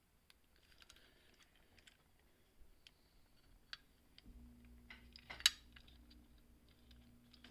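Faint small clicks and rustles of a plastic and diecast toy playset and its card being handled, with one sharp snap about five and a half seconds in. A faint low hum comes in a little past halfway.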